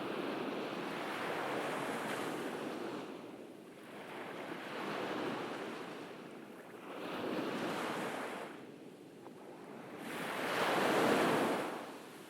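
Ocean waves surging and washing onto a beach, rising and falling about every three seconds, with the loudest surge near the end.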